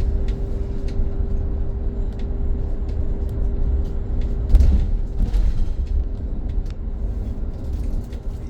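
Interior of a BYD BD11 battery-electric bus on the move: a constant low road rumble with a steady hum that stops about five seconds in, and scattered small clicks and rattles from the cabin.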